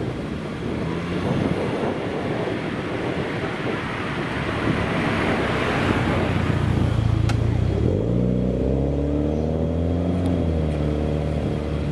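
A classic car driving past, its noise building to a peak about six seconds in, then a car engine running with a clear note that rises and falls in pitch from about eight seconds in.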